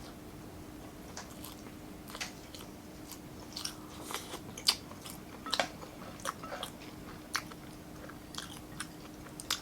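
A person chewing and biting food close to the microphone, with irregular wet smacks and sharp clicks. A faint steady hum runs underneath.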